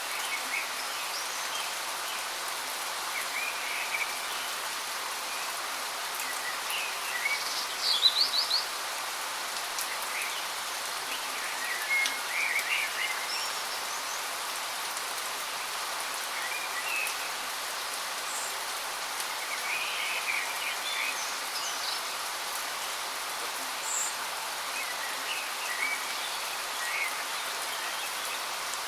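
Steady rush of falling water from a waterfall, with birds chirping in short, scattered bursts over it; the loudest burst of calls comes about eight seconds in.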